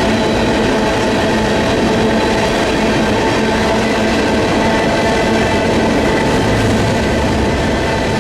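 Freight train's cars rolling past at trackside: a steady, loud rumble of wheels on rail with faint steady ringing tones in it.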